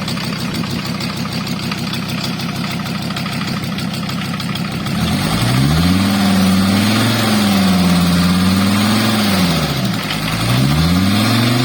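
Volkswagen T4's 2.4-litre AAB five-cylinder diesel idling steadily. About five seconds in, it is revved up and held for several seconds, drops back to idle, and is revved again near the end.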